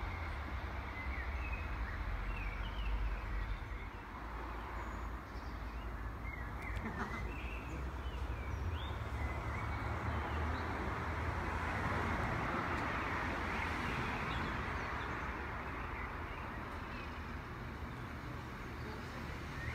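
Distant diesel multiple unit trains approaching, heard as a steady low rumble with a hiss that swells about halfway through. Birds chirp in the first half.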